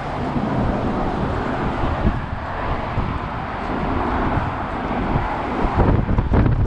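Strong gusty wind buffeting the microphone, a rough low rumble over a steady rushing hiss, with the gusts hitting harder near the end.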